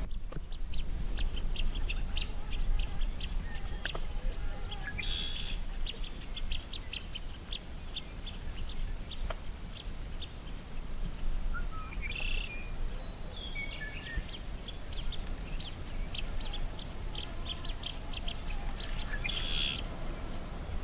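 Birds chirping: runs of short, high chirps, with a louder, harsher call about five, twelve and nineteen seconds in, over a steady low rumble.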